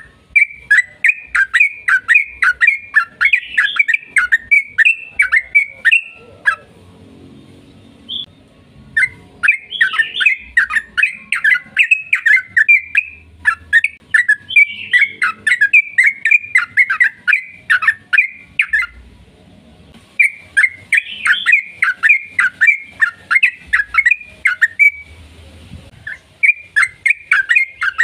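Yellow-vented bulbul (trucukan) singing a long, rapid, chattering song of sharp repeated notes. It comes in bouts of about five seconds, with short pauses between them.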